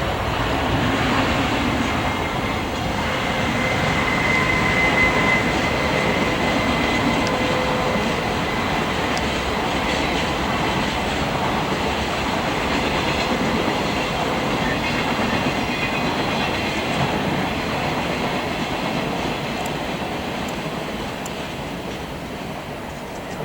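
A long train passing at speed, its wheels clattering over the rail joints with a faint steady whine, fading away near the end.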